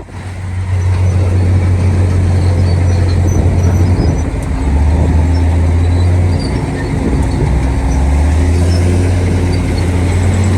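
Heavy diesel engine of earthmoving machinery running steadily. Its deep note drops about four seconds in, rises again a couple of seconds later, then drops and rises once more near the end.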